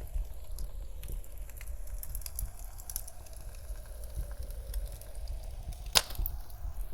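Wood fire crackling with scattered small pops and one louder pop about six seconds in, over a low rumble and faint howling wind of a blizzard.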